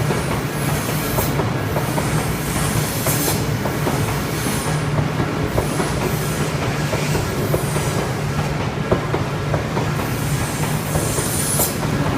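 An Odakyu Line electric train running through the crossing: a steady rumble with wheels clicking over rail joints, and brief high squeals from the wheels several times.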